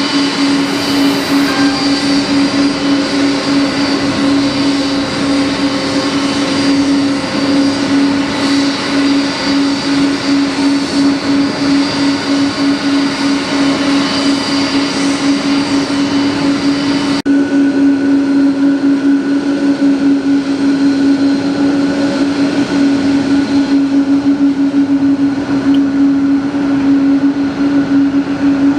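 Steady machine drone with a strong, even hum and a hiss over it. The higher hiss changes abruptly about two-thirds of the way through.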